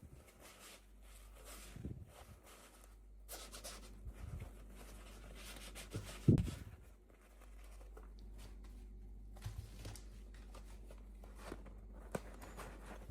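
Hands handling and tearing packaging in irregular scrapes and rustles, with a louder low thump about six seconds in.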